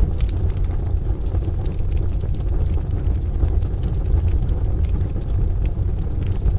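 Wood fire crackling with scattered sharp pops over a steady, dense low rumble of rain and distant thunder.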